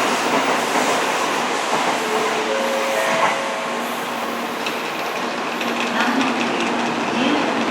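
Tokaido Shinkansen train running along the rails, a steady rush of wheel and car-body noise that eases slightly after about three seconds.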